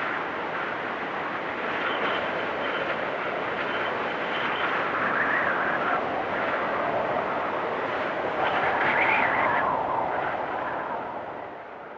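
Blizzard wind blowing as a steady rush that swells in gusts twice, then fades away near the end.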